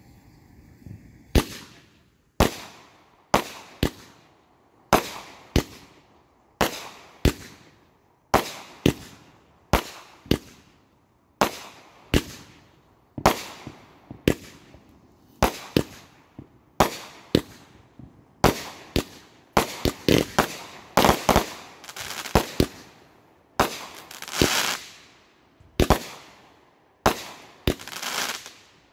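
Small aerial fireworks bursting in a rapid series of sharp bangs, about one or two a second, each trailing off briefly. The bangs come thicker, with a crackling spell, about two-thirds of the way through.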